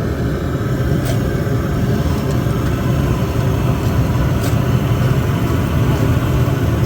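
A steady, loud low mechanical rumble, engine-like, with a couple of faint clicks.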